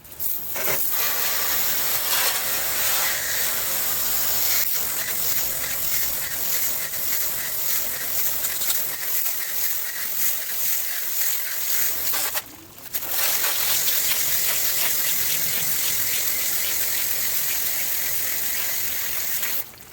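Garden hose spraying water onto an air conditioner condenser's coil fins: a steady hiss of spray that cuts out briefly about twelve seconds in, then resumes and stops just before the end.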